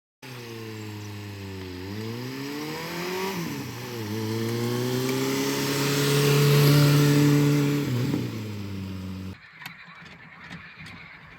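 A motor vehicle's engine running under acceleration, its pitch falling, climbing, dropping sharply and climbing again, loudest a little past the middle. It cuts off abruptly about nine seconds in, leaving faint clicks.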